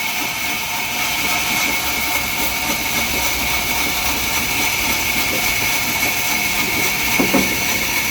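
Sawmill saw running steadily through a mahogany log, a continuous machine noise with a steady high whine and a brief knock about seven seconds in.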